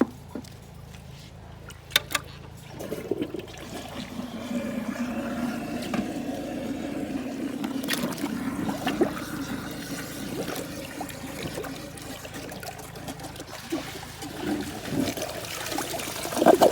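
Water running and gurgling down the bowl of a clogged 2017 WaterRidge dual-flush toilet as the blockage clears, after a couple of sharp knocks about two seconds in. The rush of water holds steady for about ten seconds, then breaks into uneven splashes near the end.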